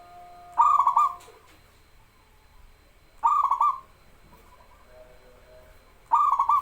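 Local zebra dove (perkutut) cooing: three short rolling calls about two and a half seconds apart, each lasting about half a second.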